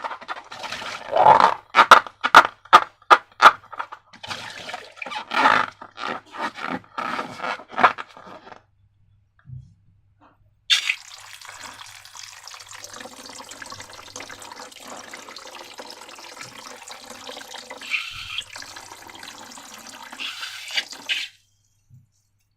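Rapid sticky clicks and crackles of slime-making materials being handled for the first eight seconds or so. After a short pause comes a steady stream of liquid pouring, about ten seconds long, which cuts off sharply near the end.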